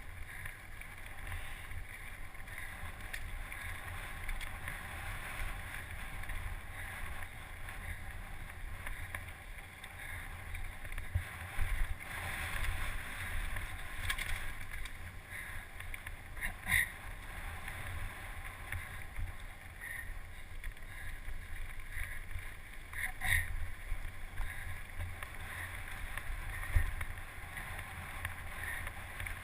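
Wind buffeting the microphone as a steady rumble, with a hiss above it and two sharp clicks partway through.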